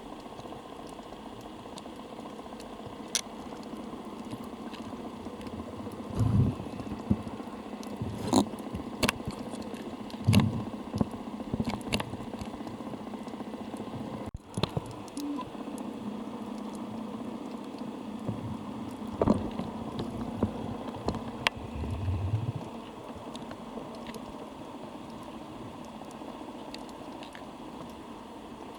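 Underwater ambience picked up by a camera sealed in a waterproof housing: a steady hiss with scattered sharp clicks and a few dull low thumps.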